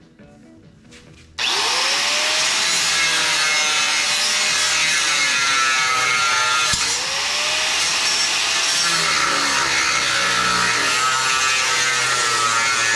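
A power cutting tool cutting through the steel of a truck frame, switching on abruptly about a second and a half in and running steadily with a loud hiss. Its motor pitch dips once midway and climbs back as it works through an old bracket.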